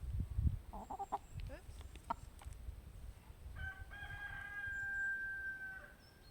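A rooster crowing: one long, steady call of about two seconds starting about three and a half seconds in. Before it come a few short clucks and low bumps.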